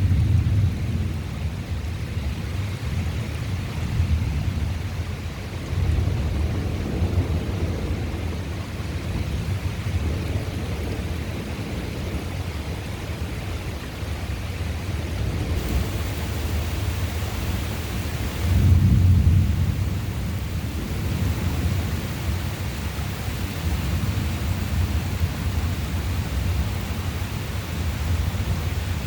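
Thunder rumbling over steady rain, with low rolls swelling and fading, and the loudest peal about two-thirds of the way in.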